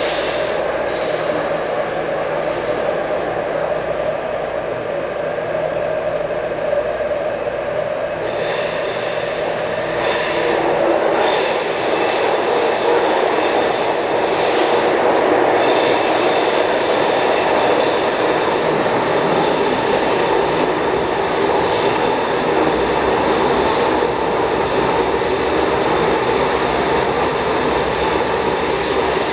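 Taipei Metro C301 train with retrofitted propulsion equipment running between stations: steady wheel-on-rail running noise with some wheel squeal. A thin high whine sets in about eight seconds in and the noise grows a little louder soon after.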